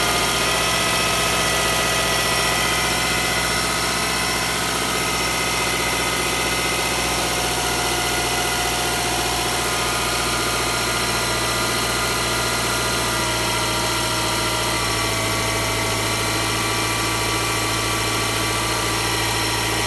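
Subaru EL15 1.5-litre flat-four engine idling steadily while it warms up after a cold start.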